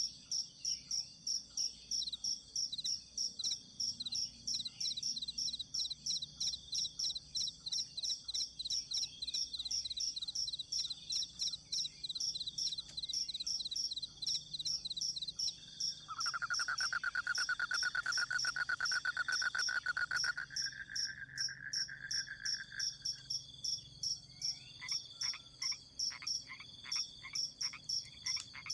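Forest night chorus of insects and frogs. High insect chirps pulse steadily about two or three times a second throughout. A loud, rapid trill comes in at about 16 seconds and lasts about four seconds, and a run of short croaks comes near the end.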